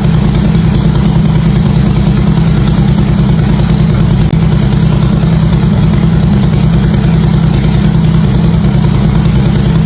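Harley-Davidson V-twin motorcycle engine idling steadily through its exhaust, a loud, even low pulse with no revving.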